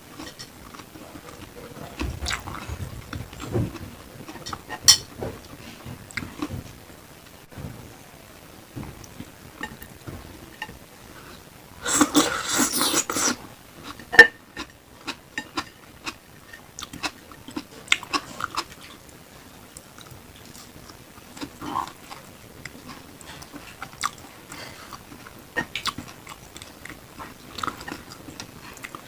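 Close-miked chewing and biting of grilled beef satay, with wet mouth clicks and sharp ticks throughout. A louder noisy burst of about a second comes roughly halfway through.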